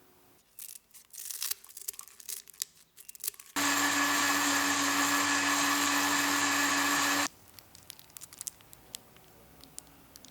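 Blender motor running steadily for about four seconds, blending pandan leaves with water, then switching off abruptly. Before it starts there is crinkly rustling and clicking; afterwards, light clicks.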